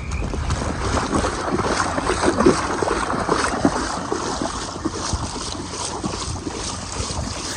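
Rain spattering and wind buffeting the microphone of a camera carried on a run, over a steady rhythm of running footfalls on a wet path.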